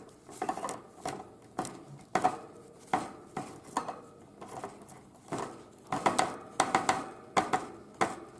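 A tit hammering at sunflower seeds with its beak: sharp, irregular taps, often two or three in quick succession, coming thickest in the second half.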